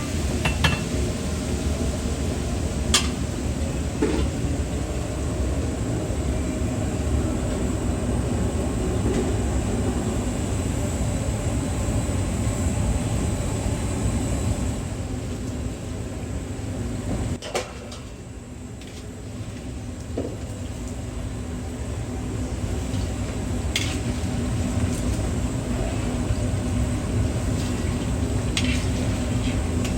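Steady rumbling background noise with a handful of sharp clicks, briefly quieter about seventeen seconds in.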